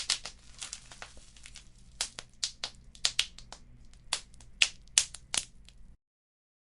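Wood fire crackling in a fireplace: irregular sharp pops and snaps over a low steady rumble. The sound cuts off to silence near the end.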